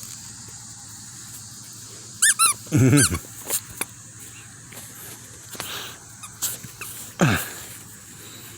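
Dog's squeaky toy monkey squeaking in short bursts as the dog chews it: a few squeaks about two to three seconds in, the loudest near three seconds, and one falling squeal near the end, with a few soft knocks in between.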